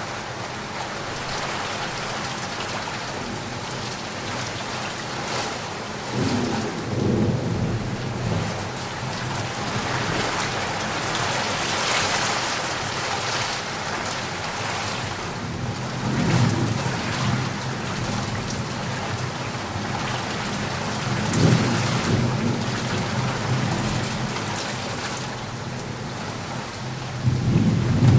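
Thunderstorm: steady rain falling throughout, with four low rolls of thunder rumbling through it, the last one near the end.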